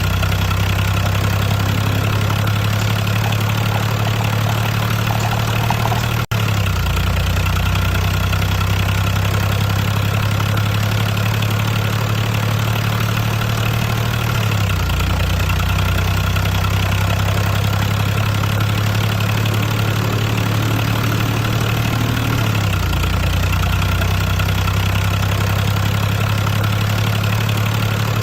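Steady low engine-like hum, like a small engine idling, shifting slightly in pitch about every eight seconds, with a brief dropout about six seconds in.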